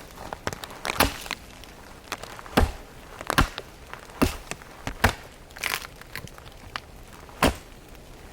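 About seven sharp wooden cracks and crunches at irregular intervals, as a weathered pine stump is broken apart to get at its dry, resin-soaked core.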